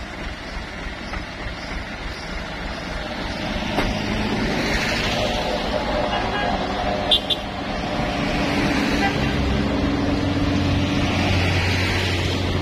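Road traffic with vehicles passing, and a heavy truck's engine hum building steadily in the second half. A brief high chirp comes about seven seconds in.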